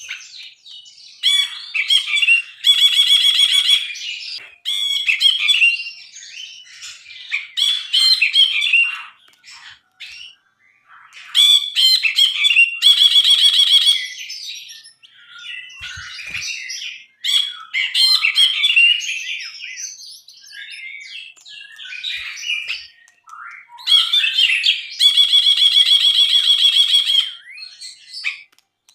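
Brinji (a bulbul) singing vigorously: a fast, varied song of chirps and whistled phrases, broken three times by loud, rapid rattling trills about two seconds long.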